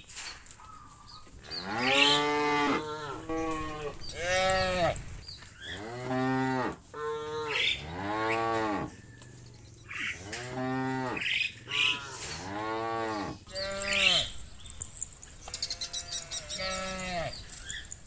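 A herd of cattle mooing, call after call, about a dozen over the stretch. Each moo lasts about a second and rises then falls in pitch, and calls from different cows sometimes overlap.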